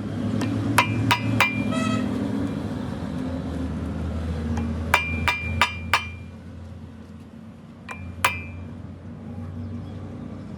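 Hammer blows on steel, each with a short metallic ring: three strikes about a second in, four more around five to six seconds, and two near eight seconds, over a steady low hum.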